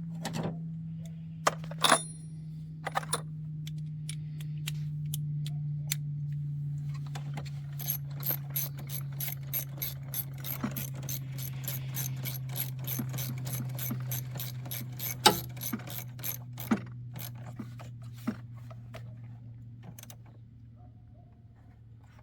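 Socket ratchet clicking as an 8 mm bolt is run down, with a long fast run of clicks in the middle and scattered single clicks and knocks around it. A steady low hum sits underneath and slowly sinks in pitch.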